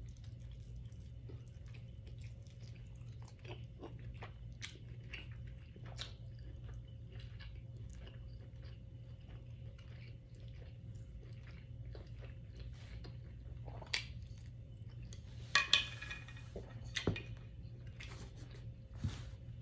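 Close-up chewing and biting of steak, with many small wet mouth clicks over a steady low hum. A few louder clacks come near the end.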